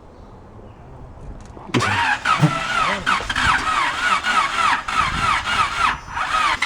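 Starter motor cranking a rebuilt Honda VTEC four-cylinder engine, starting suddenly about two seconds in, its whine rising and falling in an even rhythm of about three cycles a second as the engine turns over without catching.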